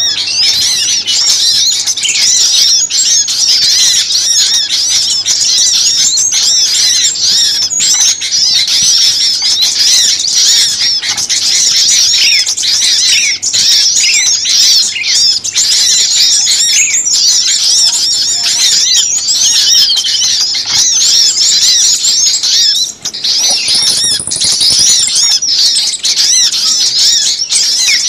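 A dense, agitated chorus of many small songbirds chirping and squeaking over one another without pause, the kind of noisy small-bird lure call used to draw birds in. It is loud and high-pitched, with a brief lull about 23 seconds in.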